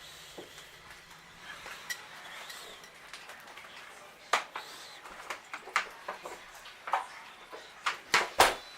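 A series of sharp clicks and knocks, sparse at first and then coming close together in the second half, the last few in quick succession near the end.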